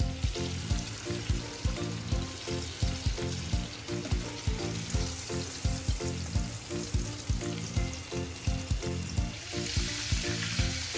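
Breaded chicken breast deep-frying in a pan of oil, a steady sizzle that grows brighter near the end when the fried chop sits in the soy garlic glaze. Background music with a steady beat plays over it.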